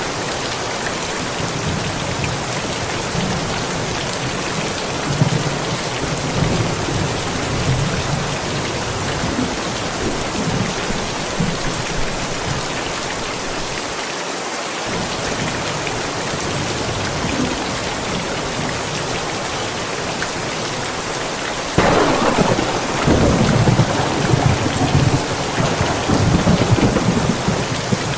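Steady rain with rolling thunderstorm thunder: low rumbles in the first half, then a sudden, louder thunderclap about 22 seconds in that rumbles on for several seconds.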